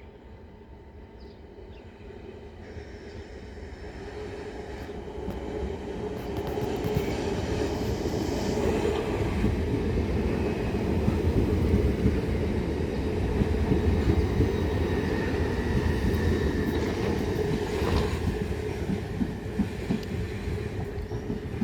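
Southern Class 377 Electrostar electric multiple unit moving along the track close by, with wheels rumbling on the rails. It grows steadily louder over the first eight seconds, then holds steady.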